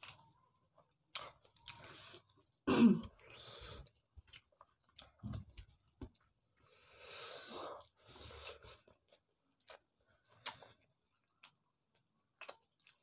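Chewing and wet mouth sounds of people eating rice and fish curry with their hands, in irregular short bursts with scattered clicks and a louder mouth sound about three seconds in.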